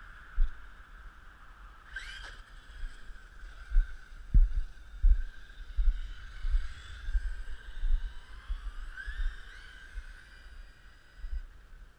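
Electric 1/8-scale RC monster truck running: a steady motor whine that climbs in pitch as it accelerates, twice. Wind buffets the microphone throughout.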